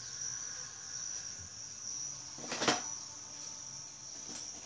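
A single sharp knock about two and a half seconds in, over a steady high-pitched tone.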